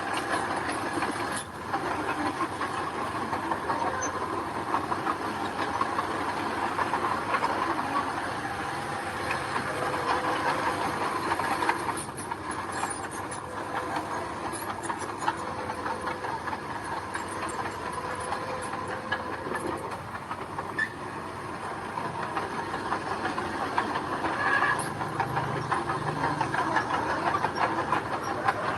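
Mini bulldozer running steadily, its engine droning under continual clanking and rattling from the crawler tracks and blade working gravel.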